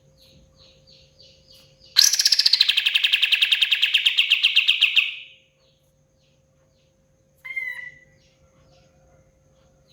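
Kapas tembak songbird singing: faint quick repeated notes, then about two seconds in a loud, fast, rattling trill of evenly spaced notes lasting about three seconds, and one short call near the end.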